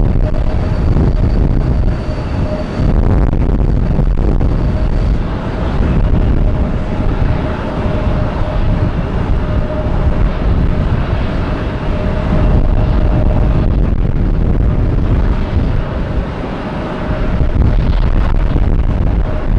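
Jet airliner engines on approach: a steady loud rush with a thin whine held through it, and wind buffeting the microphone.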